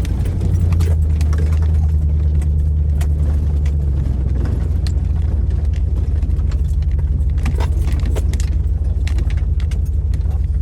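A 4x4 vehicle's engine running at low speed, a steady low drone that is strongest for the first few seconds and then eases. Scattered knocks and rattles run through it.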